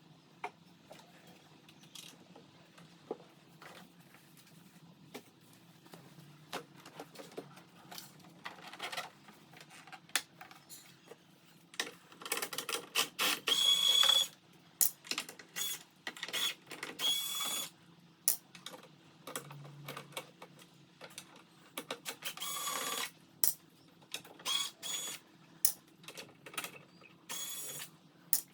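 Tools and metal parts being handled on an opened Singer Curvy sewing machine under repair: irregular clicks, rattles and short bursts of scraping, with the busiest stretch about halfway through.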